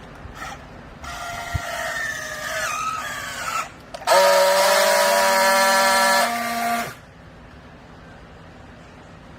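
Hydraulic clothing baler running: a wavering machine whine for a few seconds, then a louder, steady pitched tone for about three seconds that cuts off sharply.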